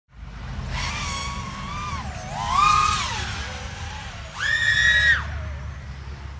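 Brushless motors of a Diatone Eachine ER349 3-inch FPV quadcopter whining. The pitch rises and falls with throttle in several surges, loudest about two and a half and five seconds in, over a steady low rushing noise.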